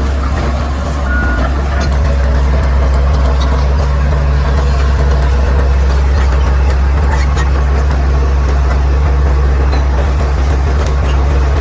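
Caterpillar D6R XL bulldozer's diesel engine running steadily under load with a deep, even drone, and a single short high beep about a second in.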